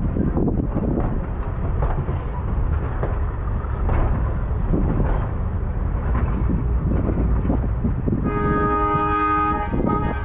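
Baldwin-Westinghouse electric steeplecab locomotive rolling along with a low rumble and irregular clatter. About eight seconds in, its horn sounds a multi-tone chord, breaking off briefly near the end and starting again.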